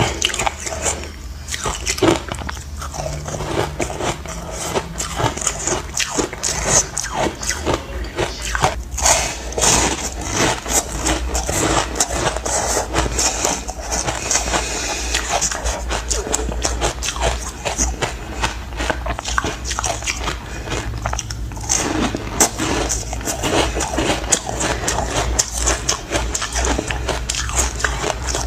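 Chunks of frozen ice coated in matcha powder being bitten and crunched between the teeth: a dense, continuous run of sharp cracks and crunches.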